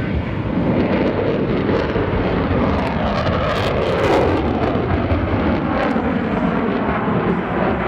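Block 30 F-16C fighter's General Electric F110 turbofan, a loud steady jet roar from an aircraft in flight. It swells to its loudest about four seconds in, then drops in pitch as the jet passes.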